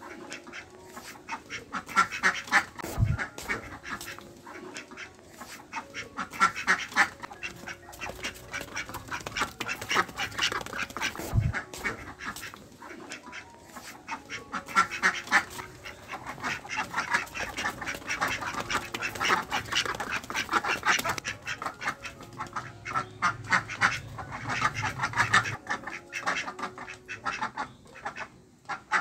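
Ducks quacking in repeated bouts of rapid quacks, a flurry every few seconds with short lulls between.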